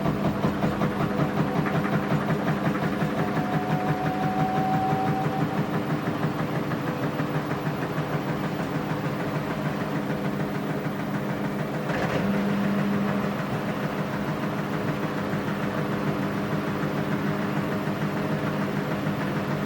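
Washing machine running, its motor and drum giving a steady hum with a fast, even pulse. A single click comes about twelve seconds in, followed by a brief louder hum.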